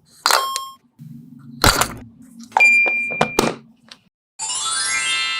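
A string of short cartoon-style sound effects: a ding near the start, a few knocks over a low hum, then a bright rising sweep about a second long near the end.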